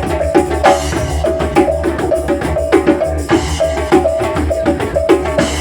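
Live didgeridoo funk: a steady low didgeridoo drone under a drum kit and hand percussion playing a busy, rhythmic groove.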